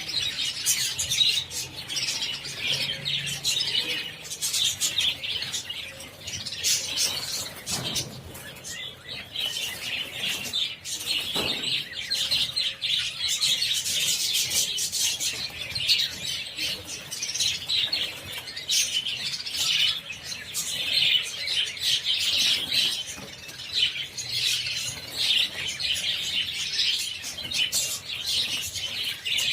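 A large flock of budgerigars chattering continuously, many short overlapping chirps and warbles.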